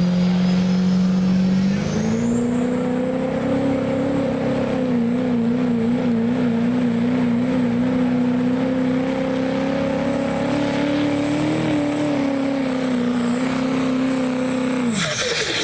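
Turbocharged work stock diesel pickup engine running at full throttle on a truck pull, with a high turbo whistle over it. The engine pitch climbs about two seconds in and holds under load, wavering for a few seconds in the middle, then the whistle cuts off and the engine drops sharply near the end as the throttle is released.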